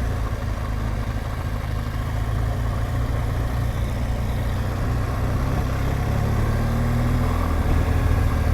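BMW R1200GS Adventure's boxer-twin engine running steadily while the motorcycle is ridden, a low, even engine drone; the engine note changes about seven and a half seconds in.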